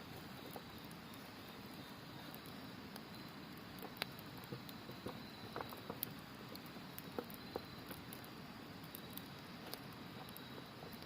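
Wood campfire crackling, with scattered sharp pops, the loudest about four and six seconds in, over the steady rush of a river and a faint high trill of autumn insects that comes and goes.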